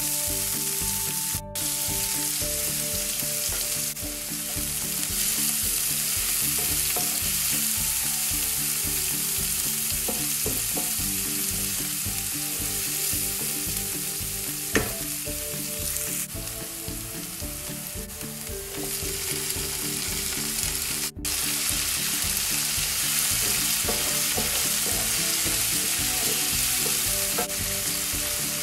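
Chopped onion and vegetables sizzling steadily as they fry in hot oil in a frying pan.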